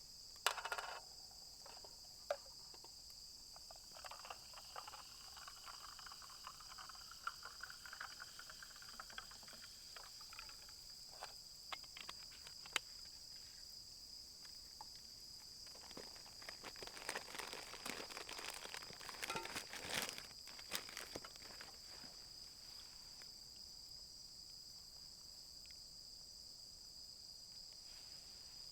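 A steady, faint high-pitched chirring from insects runs without a break. Scattered light clicks and rustles sit over it, busiest a little past the middle.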